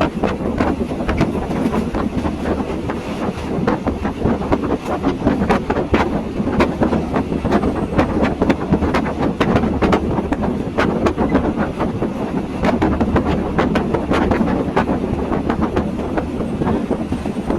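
Passenger train running on the track, heard from aboard: a steady rumble of the moving carriage with frequent, uneven clacks and rattles from the wheels and coach.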